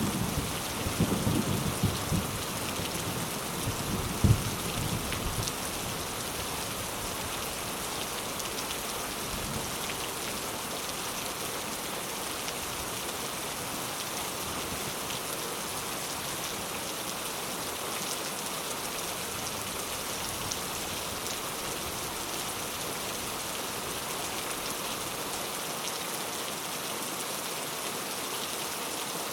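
Heavy rain falling steadily, with a low rumble of thunder that dies away in the first five seconds and has a brief louder peak about four seconds in.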